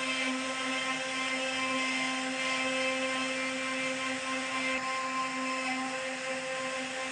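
CNC router spindle running steadily while carving wood, a constant high-pitched whine with a hiss over it.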